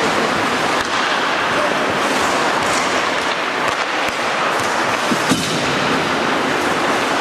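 Ice hockey play on a rink: a steady scraping hiss of skates on the ice, with a few sharp clacks of sticks and puck.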